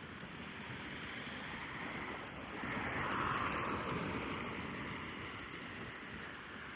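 A car passing on the road, its noise swelling up about two and a half seconds in and fading away over the next couple of seconds, over a steady hiss of wind and road noise while cycling.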